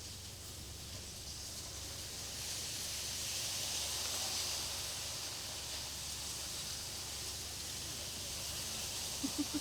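Widebeam canal boat's engine running low and steady under a high hiss that swells a few seconds in and then eases. A few short low pulses come near the end.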